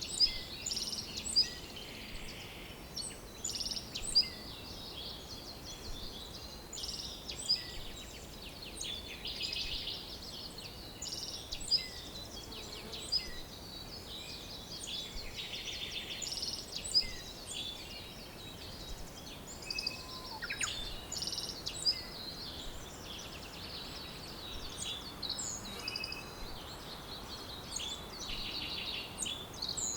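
Several songbirds singing and chirping at once, a busy overlapping chorus of quick trills and sharp high chirps over a soft steady background hiss.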